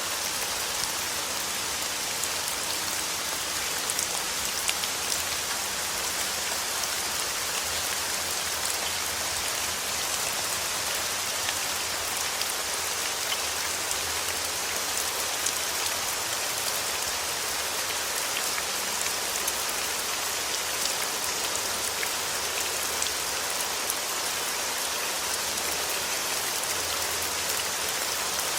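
Steady rain falling on a surface: an even hiss with scattered ticks of individual drops.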